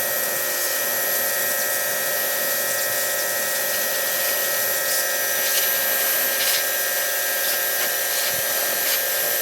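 Pressure washer running steadily: a constant motor whine with a hiss of spray.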